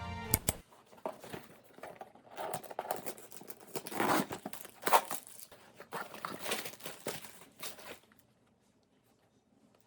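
Packaging being crinkled and torn, in irregular rustles that stop about two seconds before the end.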